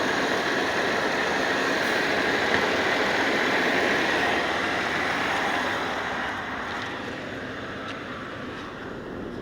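Steady hiss of refrigerant flowing from an upside-down can through the charging hose into the car's low-side AC port, over the running engine. The hiss drops in level about six seconds in.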